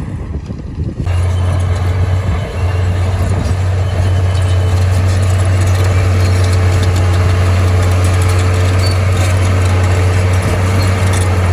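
Heavy diesel engine of earthmoving machinery running steadily and loudly, with a deep, even hum. It sets in abruptly about a second in.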